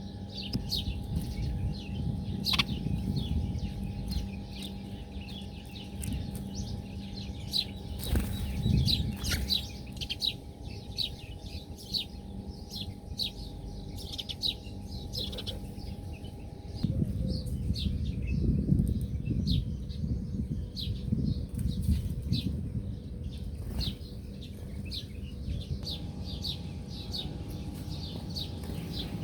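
A flock of small birds chirping in many quick, short notes throughout, with bouts of wing fluttering and rustling near the start and again in the second half. There are a few sharp knocks along the way.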